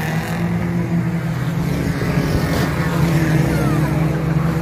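Engines of several banger racing cars running steadily as they race around the track.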